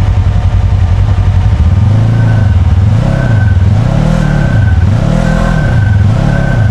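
Side-by-side UTV engine revved in repeated surges, about once a second, each rising and falling, after a steady stretch. The machine is stuck in mud, trying to back out with its wheels possibly spinning.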